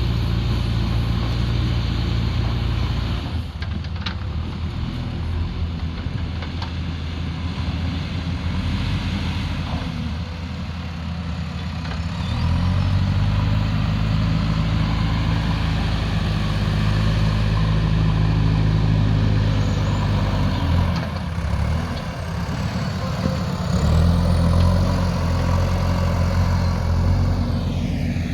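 Diesel engine of a heavy earthmoving machine working under changing load. It runs hard at first, eases off for several seconds, then loads up again for long stretches with a short dip between. A few faint knocks come through in the quieter part.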